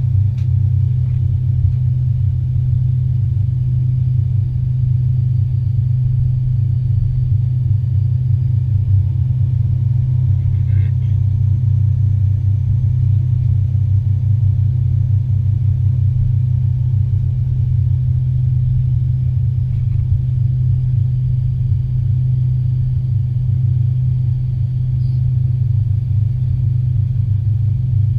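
Steady low drone inside the cabin of an Avro RJ85 airliner, from its four turbofan engines, with a faint high whine above it.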